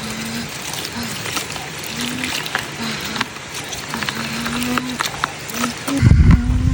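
A person's voice humming in short held notes, with light clicks and knocks throughout and a low rumble starting near the end.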